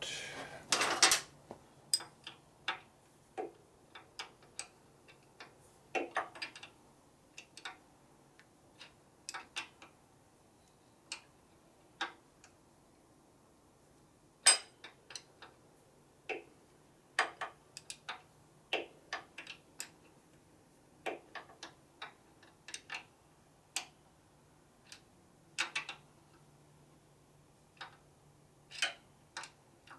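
Wrench working an oil-line fitting on a motorcycle oil pump. Irregular sharp metal clicks and ticks as the wrench is set on and turned a bit at a time, over a faint steady low hum.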